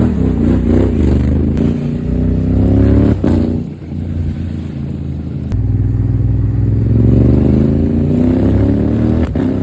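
Honda Africa Twin 1100's parallel-twin engine through an Akrapovic exhaust, accelerating hard under way with its pitch climbing. It shifts up about three seconds in, then pulls up through the revs again and shifts once more near the end.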